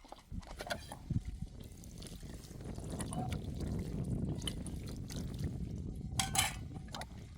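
Liquid running, with scattered clicks and knocks; it grows steadier about two seconds in.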